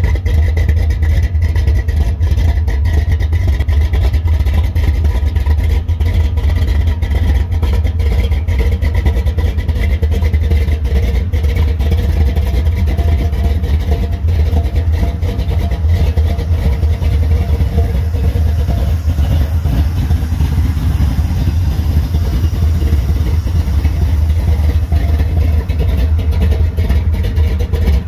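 1955 Chevrolet 210's engine idling steadily with a low exhaust rumble.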